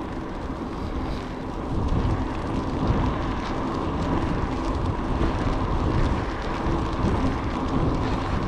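Steady vehicle running noise on the move, a constant low rumble with a faint steady hum, with wind buffeting the microphone.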